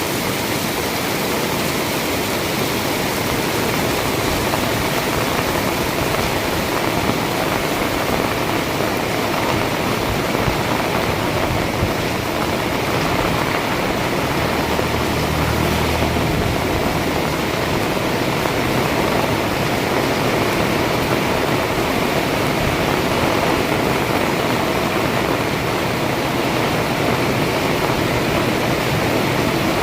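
Heavy rain pouring down as a steady, dense hiss. A low hum swells for a few seconds in the middle, like a motor passing.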